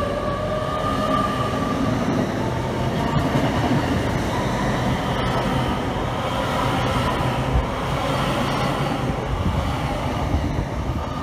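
A Great Western Railway Hitachi Class 800 multiple unit pulls out of the platform and runs past, a steady rumble of running gear on the rails. A whining tone sounds in the first couple of seconds, and the wheels click a few times over rail joints.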